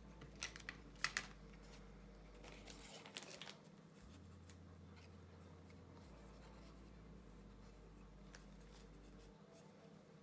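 Near silence broken by a few faint sharp clicks in the first second and a short rustle with more clicks around three seconds in, then one last faint click: hands handling fly-tying materials and tools at the vise.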